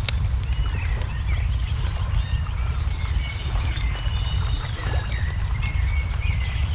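Crackling wood fire with scattered sharp pops over a steady low rumble, while small birds chirp and sing throughout.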